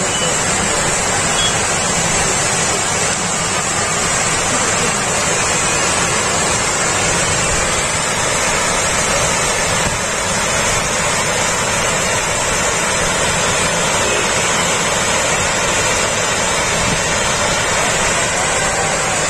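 Water rushing over an overflowing dam, a steady loud rush of noise.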